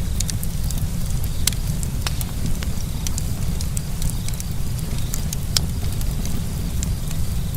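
Campfire burning, the wood crackling with irregular sharp pops and snaps over a steady low rumble.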